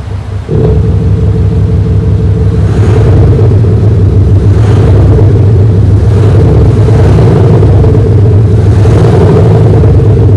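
Audi Q8's engine note, a loud, deep, steady hum. It jumps up about half a second in and then swells every couple of seconds. The car is fitted with an aftermarket Soundbooster active sound system meant to give it a V8-style sound.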